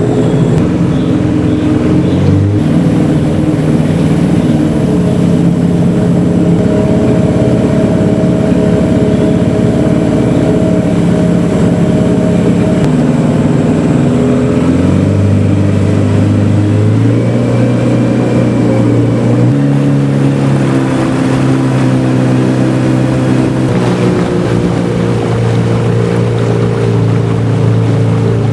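Motorboat engine running steadily under way, its note shifting in pitch several times in the second half as the engine speed changes.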